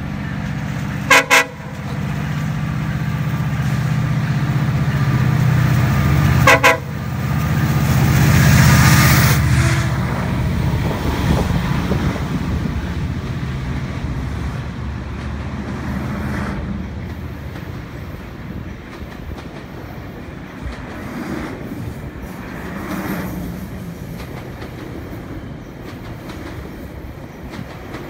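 GO Transit commuter train sounding two quick pairs of short horn toots, about five seconds apart, as a greeting. The diesel locomotive then passes beneath at its loudest, followed by a long run of coaches rumbling by with clicking wheels that slowly fade.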